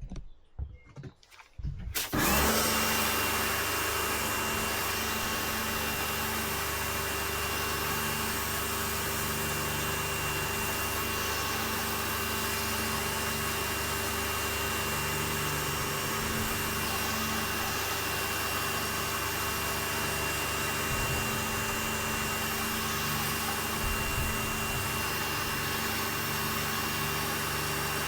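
A few short knocks, then a pressure washer starts about two seconds in and runs steadily: a constant spraying noise with a steady high tone.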